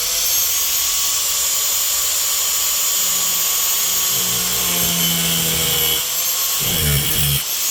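An abrasive cut-off grinder spins up with a rising whine and settles to a steady high whine, then cuts through sheet-metal truck floor pan. From about three seconds in, the pitch sags and wavers as the wheel loads in the cut.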